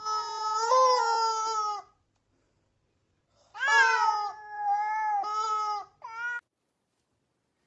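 A cat meowing: two long, drawn-out meows, the second dipping in loudness partway through, then a short meow.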